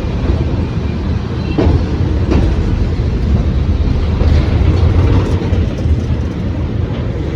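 Indian Railways train running at speed, a steady low rumble with a few sharp clicks from the wheels over the track, about one and a half and two and a half seconds in.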